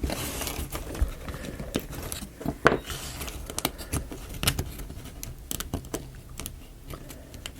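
Wooden parts of a marble-run model being handled and worked into place: scattered light clicks, taps and scrapes, the loudest click a little under three seconds in.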